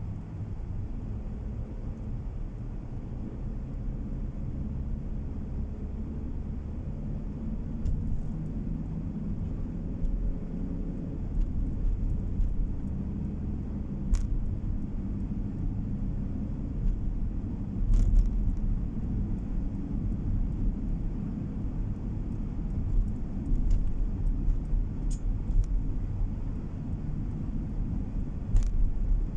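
Car on the move: a steady low rumble of tyres and engine, with a few faint, sharp clicks now and then.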